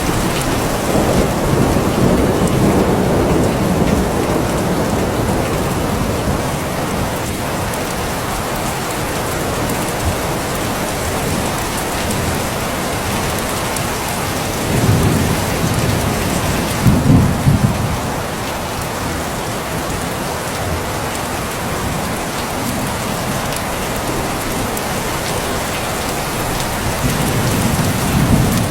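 Steady heavy rain falling, with low thunder rumbles swelling up in the first few seconds, twice in the middle, and again near the end.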